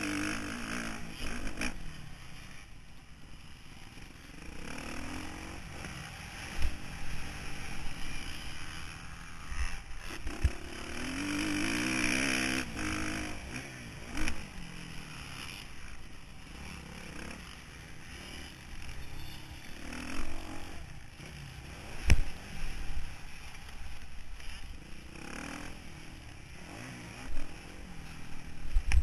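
Motocross bike engine heard from on board, revving up and falling back again and again as the rider accelerates and shuts off around the track, with chassis clatter and several sharp thumps from the bike jolting over the terrain.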